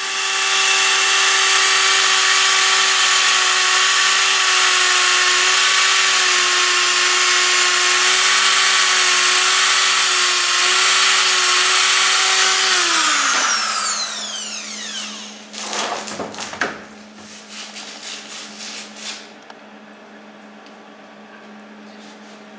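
Electric grinder running at a steady pitch, grinding at welding wire that has burned fast in the torch. About thirteen seconds in it is switched off and winds down with a falling whine, followed by a few clicks and rattles.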